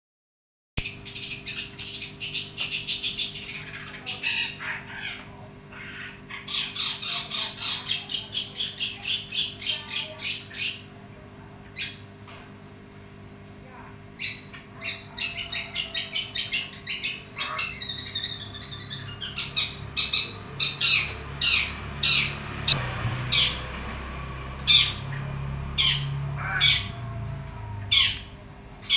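Long-tailed shrike (pentet) calling in fired-up form: runs of rapid, harsh repeated notes, several a second, broken by short pauses, over a steady low hum.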